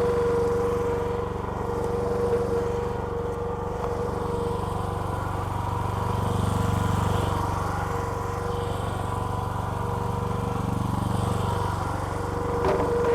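Small petrol engine of a hydraulic log splitter running steadily, its hum swelling slightly twice. A high steady whine cuts out just as it begins.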